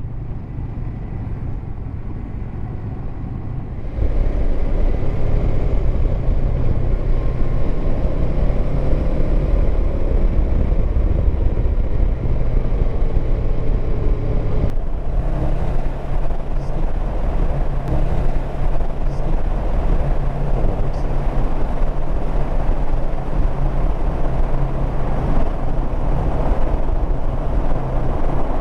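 Honda CB500X's parallel-twin engine running at a steady road speed, with wind and road noise. The sound steps up abruptly about four seconds in and changes again about halfway through.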